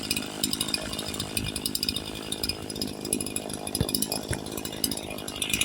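Echo CS-4910 two-stroke chainsaw running. Its muffler has been opened up, with the exhaust louvers enlarged and the spark-arrestor screen removed, which gives it more bark.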